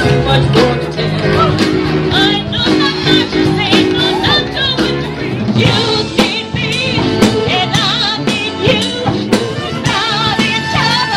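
Live band music: a singer over drums and backing instruments.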